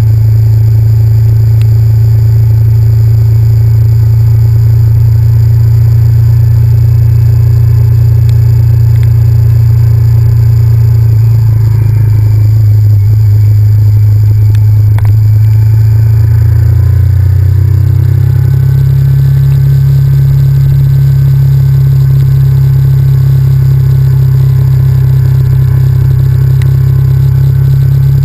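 Honda VTR1000F's 90-degree V-twin engine running at a steady pace, very loud with a heavy rumble over it. Its note steps up a little about two-thirds of the way through.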